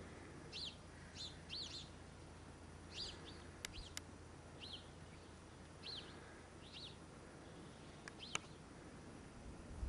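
A small bird chirping over and over in short, quickly falling notes, roughly one a second, with a few sharp clicks now and then.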